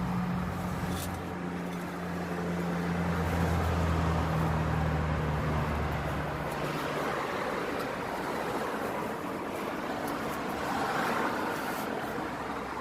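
A motor vehicle's engine running with a steady low hum that dies away about seven seconds in, leaving a steady background noise.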